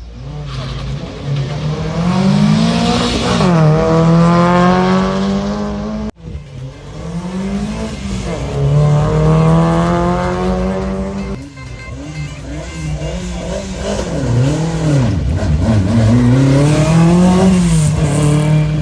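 Rally car engines revving hard as they accelerate, the pitch climbing and then dropping at each gear change, several times over. There is an abrupt break about six seconds in, and the engine pitch swings up and down near the end.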